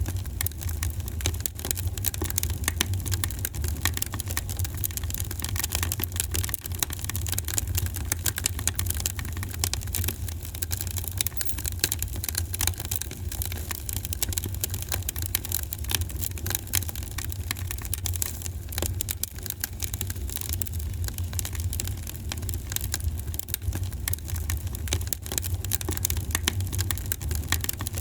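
Wood fire in a fireplace crackling steadily, with many small irregular pops over a low, even rumble.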